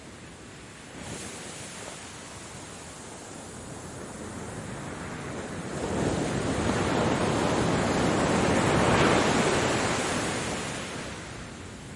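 Ocean waves on a shore. A wave swells from about halfway through, breaks and washes in, loudest near three-quarters of the way, then ebbs away again.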